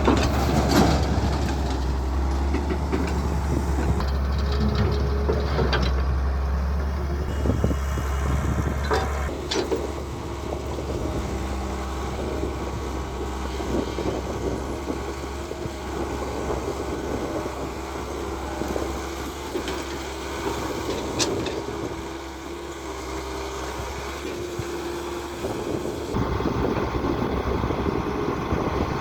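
Caterpillar E120 hydraulic excavator's diesel engine running steadily while it works, with a few sharp metallic knocks: one near the start, one about nine seconds in and one about twenty-one seconds in.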